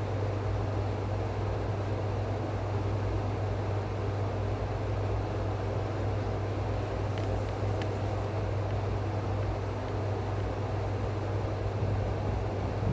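A steady low hum over an even rushing noise, with a couple of faint ticks a little past the middle.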